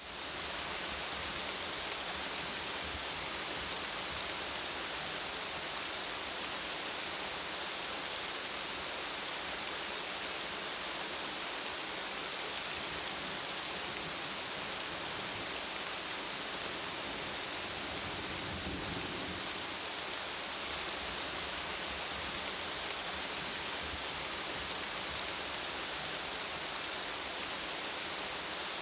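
Steady rain falling, an even hiss that fades in at the start and holds level, with a brief low rumble about two-thirds of the way through.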